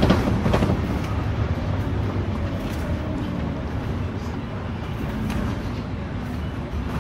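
Cabin noise of a Scania K310UD double-decker bus on the move: its diesel engine and road noise heard from inside, a steady low rumble with a faint steady hum.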